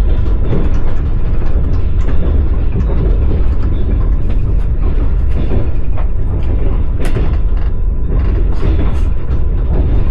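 Passenger train running along the track, heard from inside the carriage: a loud, steady low rumble with the clatter and clicks of the wheels on the rails.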